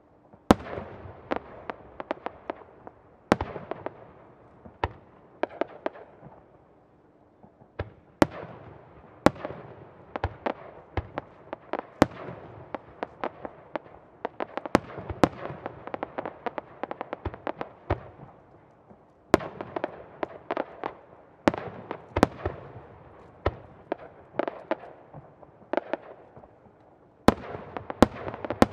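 Aerial firework shells bursting overhead: a dozen or more sharp bangs at irregular intervals, each trailing off in echo, with a dense crackle of small pops between them.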